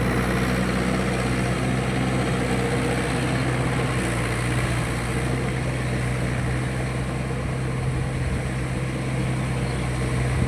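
Mahindra 585 tractor's diesel engine running steadily.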